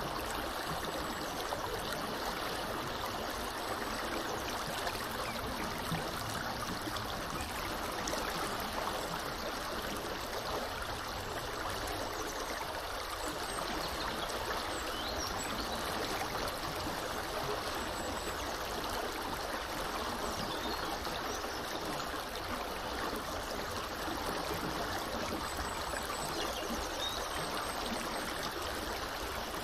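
Small river flowing steadily, an even rush of water. A few faint, high bird chirps come through now and then.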